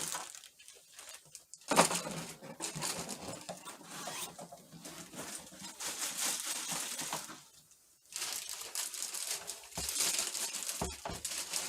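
Packing material being handled and crinkled, with rustling and scattered clicks. It starts sharply about two seconds in and pauses briefly past halfway.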